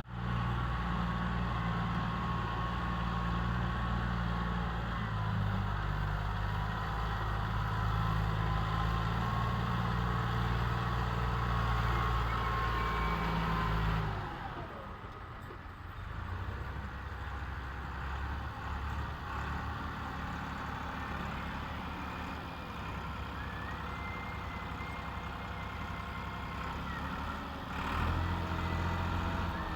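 Tractor engine running loud and steady under load while pulling a trolley. About fourteen seconds in it drops back suddenly and runs lighter, then picks up again near the end.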